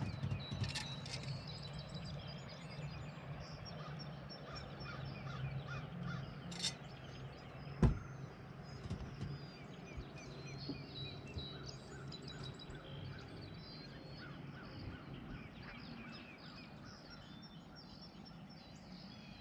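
Birds chirping and calling in short repeated note series over a low steady hum, with one sharp knock about eight seconds in.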